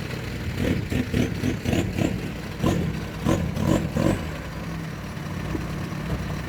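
Mini truck engine running steadily. About half a second in, a quick irregular run of clunks and rattles starts and lasts about three and a half seconds.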